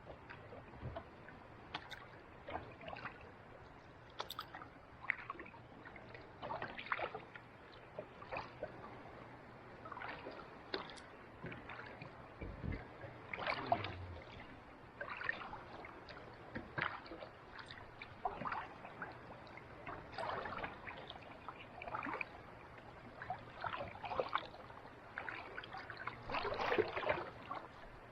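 Kayak paddle dipping into calm sea water: soft splashes and drips from the blades, irregular, about one a second.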